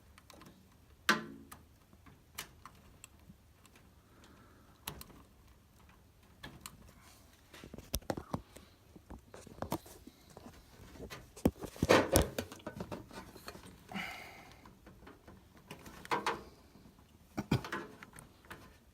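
Hands working with cables and small plastic parts: scattered clicks, knocks and rustles at irregular intervals, the sharpest about a second in, around twelve seconds in and again near the end.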